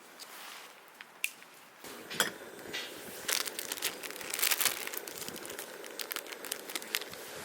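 Campfire being lit: crinkling kindling with a few sharp snaps, then a denser crackling sets in about two seconds in as the fire catches.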